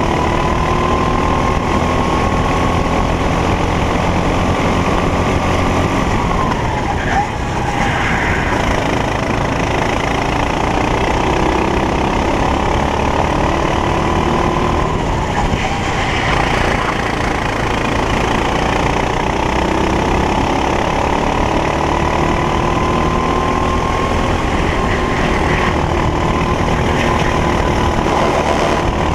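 Racing kart engine at full throttle, its note climbing steadily along the straights. It drops sharply twice, about 7 and 16 seconds in, as the driver lifts for corners, then climbs again.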